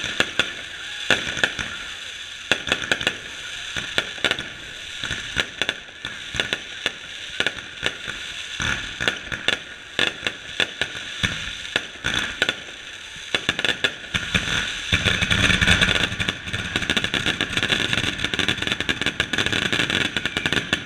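Fireworks display: shells bursting overhead in a string of sharp bangs, mixed with crackling. The reports come thick and fast for a few seconds past the middle, with a deep rumble under them.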